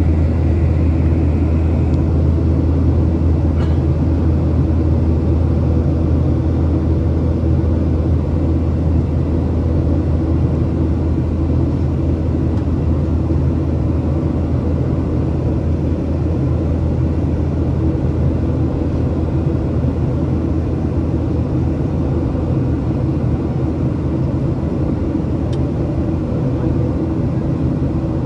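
Steady cabin noise inside a Boeing 737-800 in flight: the drone of its CFM56 turbofan engines, heard from a seat just ahead of the wing, with airflow hiss. It holds even throughout, with a faint click twice.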